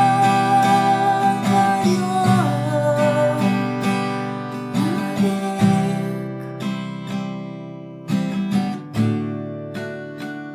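Acoustic guitar playing the instrumental gap of a worship song, strummed and picked chords. A held note carries over at the start and dies away after about two seconds.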